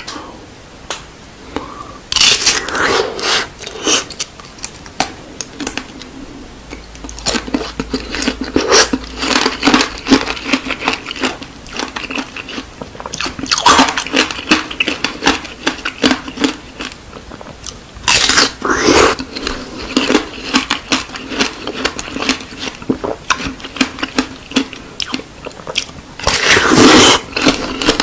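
Close-miked biting and chewing of candied fruit, the hard sugar coating crackling and crunching. Four loud bites, each followed by a stretch of crunchy chewing.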